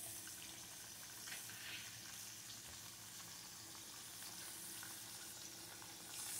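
Flour-coated cube steak frying in shallow oil in an electric skillet: a faint, steady sizzle with a few small crackles.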